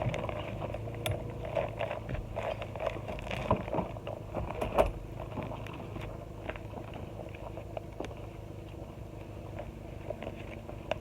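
Wood campfire crackling: scattered small pops and snaps over a steady low rumble, with a couple of sharper snaps about halfway through.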